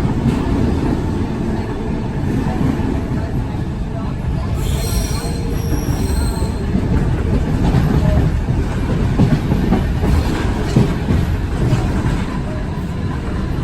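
Heritage train carriage running along the track: a steady low rumble of wheels on rails. A high squeal lasting about two seconds comes partway through.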